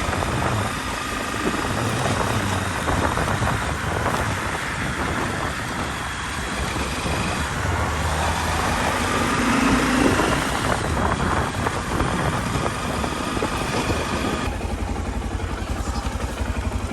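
Motorcycle running on the road, with rushing wind noise over the microphone. About three-quarters of the way through, the wind drops away and the engine settles into a steady, even low pulsing at idle.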